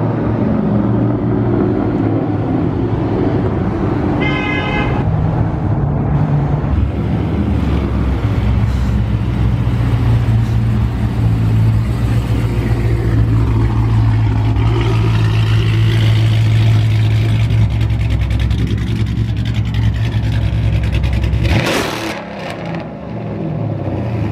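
Straight-piped 6.1-litre Hemi V8 of a Chrysler 300 SRT8 running loud under load through a tunnel: a heavy, steady exhaust drone that drops away sharply near the end. A short car-horn blast sounds about four seconds in.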